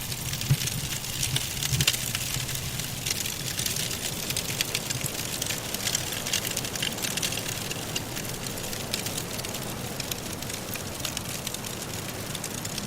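Wood logs crackling in a fireplace: a dense run of small pops and snaps over a steady hiss, with the soft wind of a blizzard underneath.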